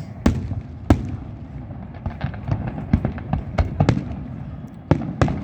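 Fireworks going off: a rapid, irregular series of sharp bangs and crackles over a continuous low rumble, with a few louder bursts standing out.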